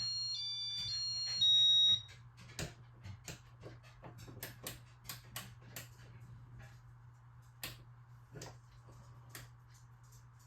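A short electronic beep tune of steady high tones stepping between several pitches, lasting about two seconds. It is followed by a run of irregular sharp clicks over a low steady hum.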